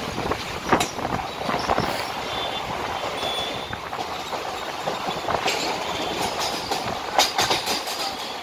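Mumbai suburban local train running at speed, heard from on board: a steady rushing rumble with wheels clacking over the rail joints, a quick run of clacks near the end, and a few brief high wheel squeaks.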